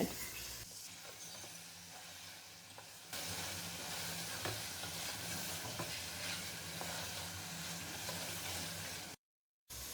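Chicken masala with tomatoes and spices sizzling in hot oil in a pot while being stirred, with light ticks of the spoon; the sizzle gets louder about three seconds in. The chicken is being sautéed (bhunai) until the masala cooks down.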